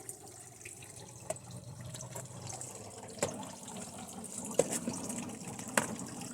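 A camera tripod being extended and set up: a few separate clicks and knocks from its legs and fittings over a steady faint hiss.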